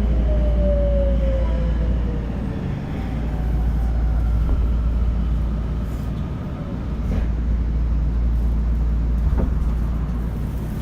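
Tokyo Metro 02 series subway train running: a steady low rumble of wheels on rail, with a motor whine falling in pitch over the first couple of seconds.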